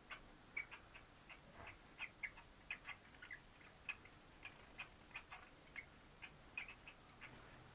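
Cockatiels making a faint, irregular run of short, high chirps, about three a second.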